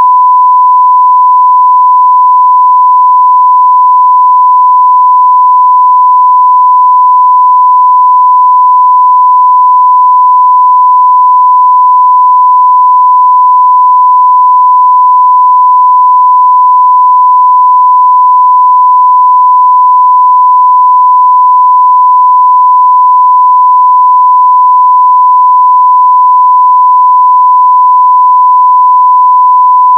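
Continuous 1 kHz sine-wave test tone at full scale (0 dB), a single steady unbroken pitch.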